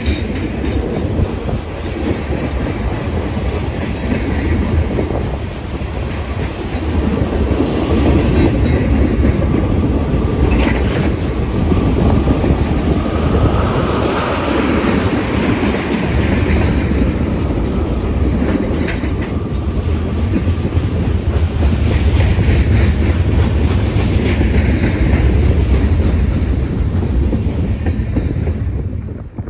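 Train rolling past close by, a steady loud rumble of wheels on the rails, with a faint thin squeal midway. The sound cuts off abruptly near the end.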